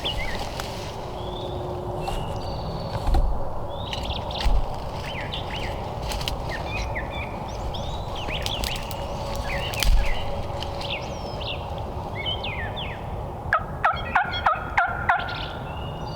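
Wild turkey hen yelping: a run of about seven quick yelps near the end, over songbirds chirping throughout.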